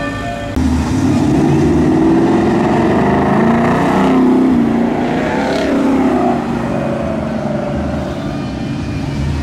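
Car engine running, cutting in abruptly about half a second in, its pitch rising and falling.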